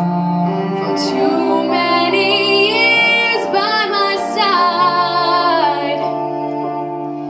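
A female vocalist singing a slow song over instrumental accompaniment, holding long notes with vibrato.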